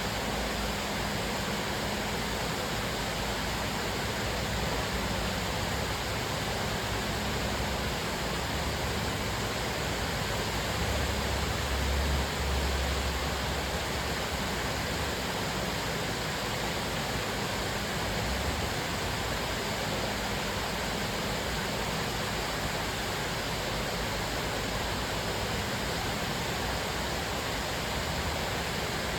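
Cascading waterfall: a steady rush of falling water, with a brief deeper rumble about midway.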